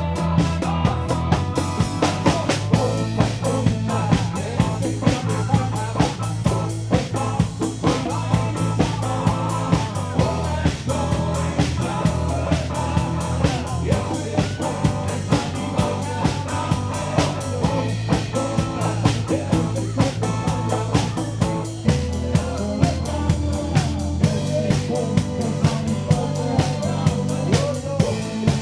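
Live band playing a rock number on drum kit, bass and guitar, with a steady beat of about two drum hits a second and no vocals.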